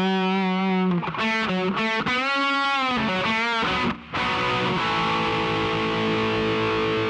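Intro music on distorted electric guitar: a few sustained notes, then a held chord from about halfway.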